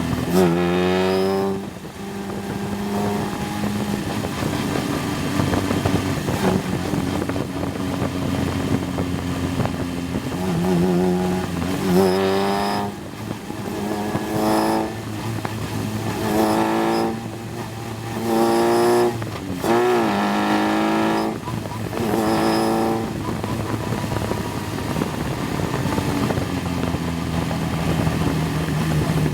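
Single-seater race car's engine heard onboard at speed, its pitch climbing repeatedly through the revs and dropping at each gear change.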